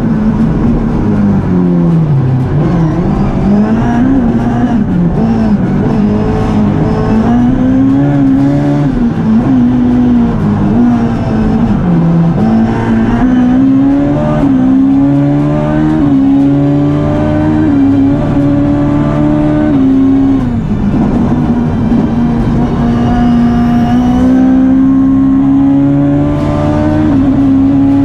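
Ford Fiesta rally car engine driven hard, revving up and dropping back over and over as it accelerates, shifts and lifts off.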